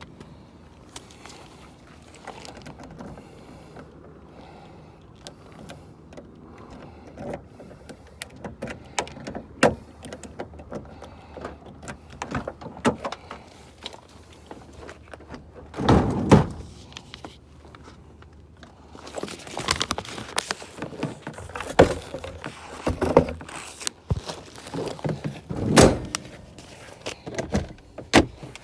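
Scattered clicks, knocks and thumps of things being handled, with one loud thump about halfway through and several more in the last third.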